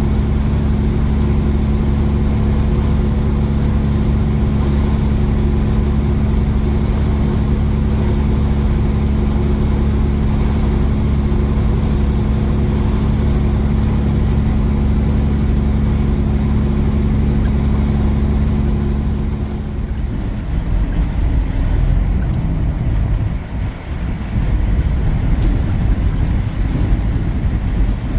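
A diesel engine running at a steady speed. About twenty seconds in its steady note stops and an uneven low rumble takes over.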